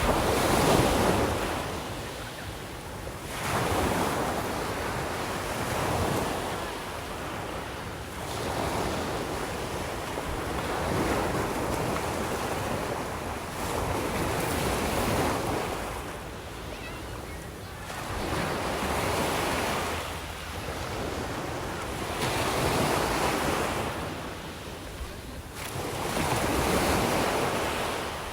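Mediterranean sea waves breaking and washing up the shore, one surge after another every three to four seconds, rising and falling in a steady rhythm.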